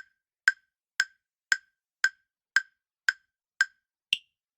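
Countdown-timer ticking sound effect: sharp ticks at about two a second. The last tick, near the end, is higher in pitch and marks the answer time running out.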